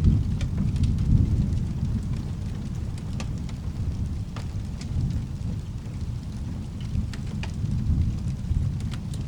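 Thunder rumbling low and rolling, easing off in the first couple of seconds and swelling again a few times, over steady rain, with scattered sharp clicks and crackles.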